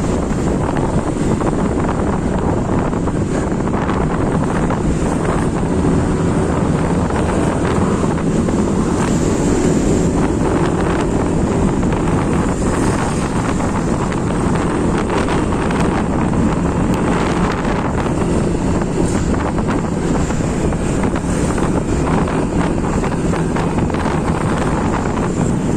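Steady road noise of a vehicle travelling along a road, with wind buffeting the microphone.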